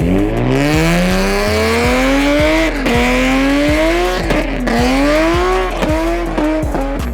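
Car engine revving hard, its pitch climbing and then falling back sharply several times, with a hiss of tire squeal.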